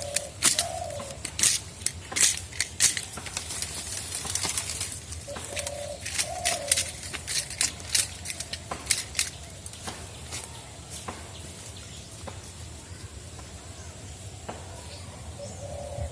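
A dove cooing, one short low phrase repeated about every six seconds, with bursts of sharp clicks and taps between the calls.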